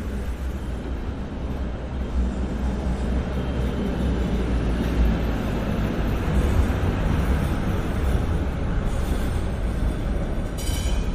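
Steady low rumble of a vehicle passing on a city street, with a brief high-pitched squeal near the end.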